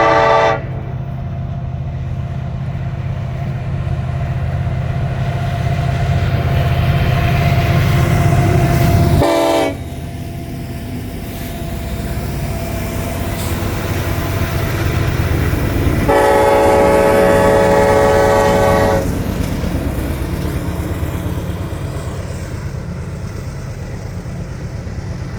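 Diesel-hauled double-stack container freight train passing close by: a loud, steady rumble of the locomotives that drops off about nine and a half seconds in, then the rolling of the container cars. A multi-note air horn sounds three times: a blast ending just after the start, a short toot about nine seconds in, and a longer blast of about three seconds around sixteen seconds in.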